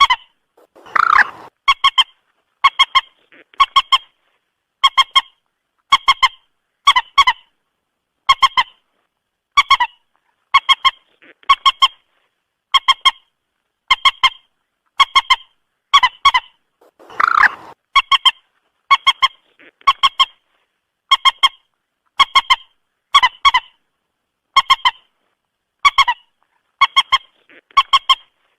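Moorhen calls: short, sharp clucking notes in quick pairs or triplets, repeating about once a second. A longer, harsher call breaks in twice, about a second in and again past the middle.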